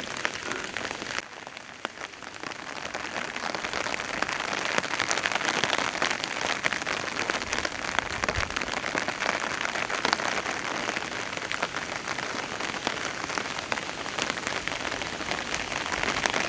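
Heavy monsoon rain falling on an umbrella, picked up by a microphone stuck to the umbrella itself, so that countless close drop hits tick over a dense hiss of rain. The rain dips briefly about a second in, then builds and holds steady.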